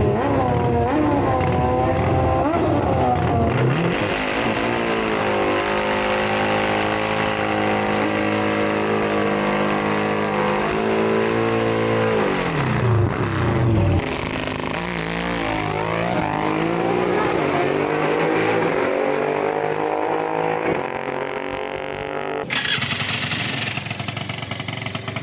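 Motorcycle engine under hard acceleration. Its pitch climbs, holds, drops about 12 to 14 seconds in, then climbs again, as it would through gear changes. About 22 seconds in the sound cuts abruptly to a rougher, noisier engine sound.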